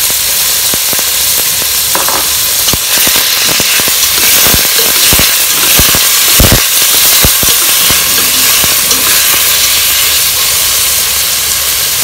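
Pineapple, tomato, lemongrass and garlic sizzling in hot oil in a stainless steel pot, a loud steady hiss. Wooden chopsticks stir them, with a run of sharp clicks against the pot in the middle.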